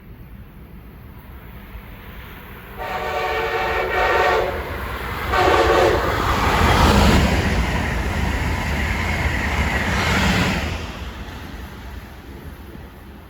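Passenger train on the Northeast Corridor sounding its multi-note horn twice, a longer blast and then a shorter one. It then passes at speed with a loud rush of wheel and air noise that fades away near the end.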